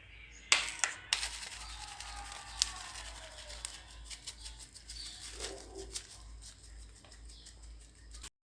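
A metal utensil clicking and knocking against a dish several times in the first few seconds. Soft scraping follows as doce de leite is spread over a cake, with faint background music-like sound underneath.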